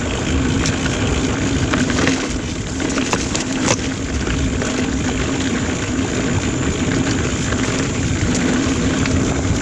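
Mountain bike ride on a dirt singletrack trail: steady wind and riding noise on the microphone, with tyre roll, a steady hum and a few sharp rattles and clicks from the bike.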